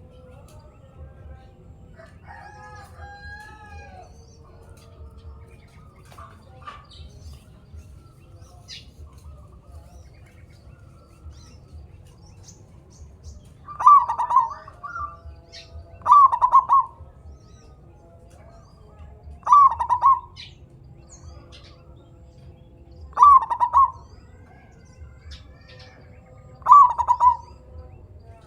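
Zebra dove (perkutut) cooing: five loud, short, rapidly pulsed coo phrases in the second half, spaced about three to four seconds apart, with fainter bird notes before them and a steady low hum underneath.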